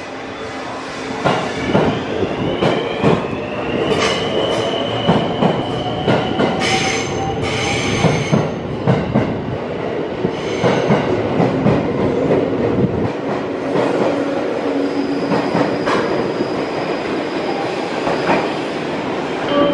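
Electric commuter trains pulling out of a station platform. A motor whine climbs in pitch as a train gathers speed, while the wheels clack repeatedly over rail joints. Bursts of high-pitched wheel squeal come a few seconds in.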